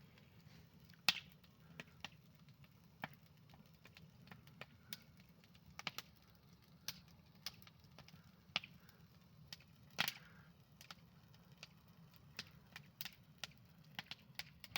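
Campfire crackling: burning wood snapping and popping at irregular intervals, with two louder pops about a second in and about ten seconds in, over a faint steady low rumble.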